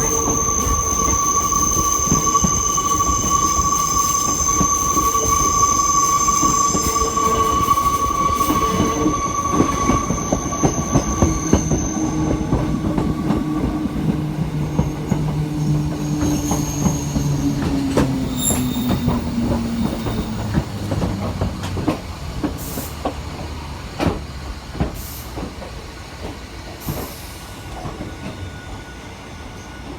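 Hakone Tozan Railway electric train running on a curve, its wheels giving a steady high-pitched squeal that dies away after about twelve seconds, over a run of clicks from the wheels on the rail. A lower hum falls in pitch midway, and the train's sound grows fainter toward the end.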